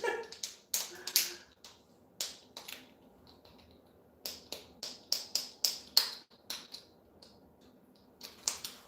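A run of sharp, irregular clicks and taps, some in quick groups of about three a second, over a faint steady hum.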